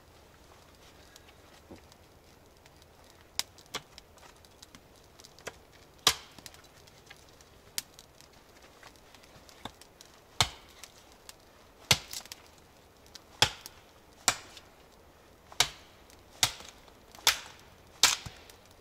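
Dry aspen wood being chopped. The strikes are sharp and separate: a few scattered ones at first, then firmer blows about once a second through the second half.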